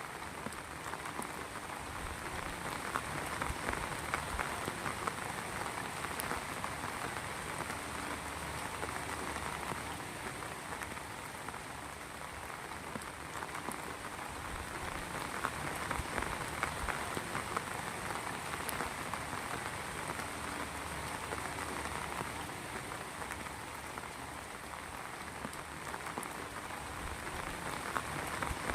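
Heavy rain falling steadily, with dense drop patter on a surface, swelling and easing slightly every few seconds.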